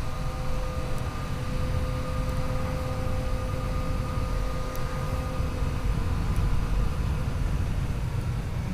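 Yamaha FJ-09's three-cylinder engine running at a steady cruise under heavy wind rush on the microphone. Its steady drone fades somewhat past the middle.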